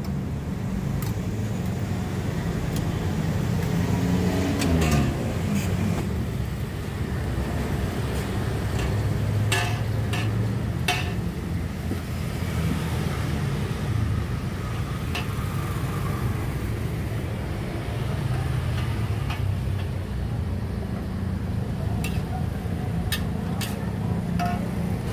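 Steady road-traffic rumble, with a motor vehicle passing about five seconds in, its pitch falling. Short sharp clinks are scattered throughout.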